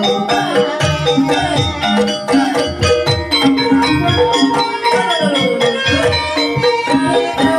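Live Banyumas ebeg accompaniment music: a gamelan-style ensemble of tuned percussion and drums playing continuously, with held ringing notes and some gliding pitches over dense strokes.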